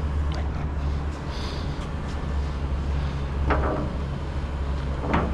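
Steady low machine hum, with two short metallic clanks: one about three and a half seconds in, one near the end.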